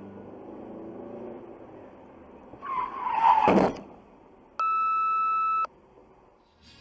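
Car road noise, then, about two and a half seconds in, a loud tyre screech lasting about a second that falls in pitch and cuts off. Next comes a steady electronic beep of about one second.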